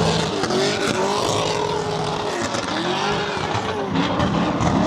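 A car's engine revving hard, its pitch rising and falling about four times, over the noise of spinning, skidding tyres, as during donuts or a burnout.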